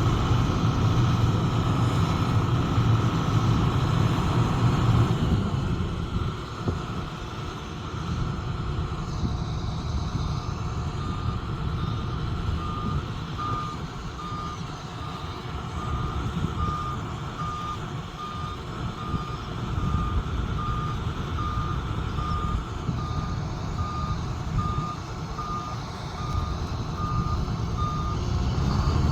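Heavy diesel machinery engine running, louder for the first few seconds and then easing to a lower working drone. About a third of the way in, a backup alarm starts beeping steadily, one short tone every two-thirds of a second or so.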